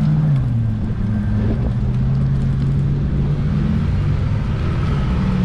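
Motor traffic passing a cyclist on a highway: an engine hum drops in pitch as a vehicle goes by about half a second in, then a steady engine hum carries on, over constant wind rumble on the microphone.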